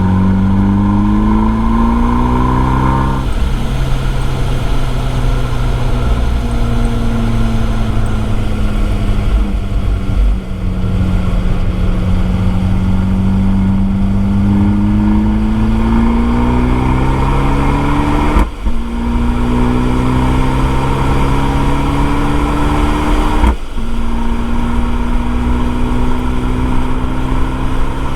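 Abarth 595 Esseesse's turbocharged 1.4-litre four-cylinder through an Akrapovič exhaust, driven hard: revs climb to an upshift about three seconds in, sag off the throttle, then climb again through two more quick upshifts in the second half.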